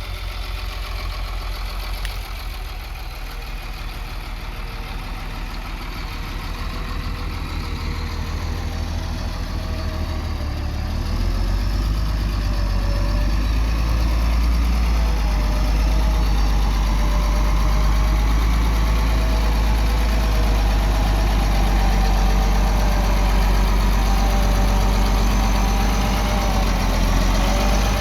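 Diesel engine of a heavy machine running steadily, growing louder about ten seconds in and holding there, with wavering higher tones over the engine sound.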